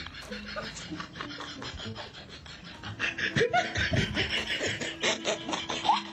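People laughing in rapid pulses, louder from about three seconds in.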